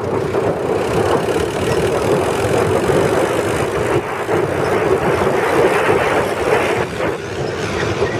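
Mahindra Arjun diesel tractor engine running steadily, a continuous dense drone with slight dips in level partway through.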